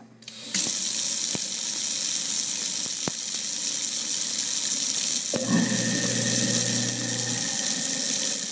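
Kitchen faucet water running steadily into the sink and down the garbage disposal, rinsing out leftover food particles. A few clicks come through, and about five seconds in a low hum joins the rush of water.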